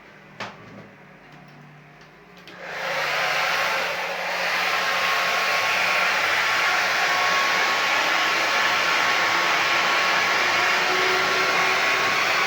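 A hair dryer is switched on about two and a half seconds in and runs steadily and loudly. A single click comes about half a second in, before the dryer starts.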